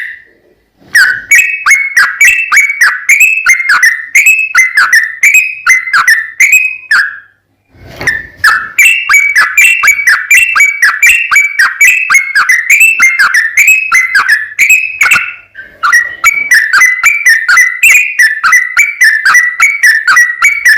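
Yellow-vented bulbul (trucukan) singing a rapid, unbroken run of bubbling, whistled notes, about two to three a second, with brief pauses about a second in and again around seven seconds in.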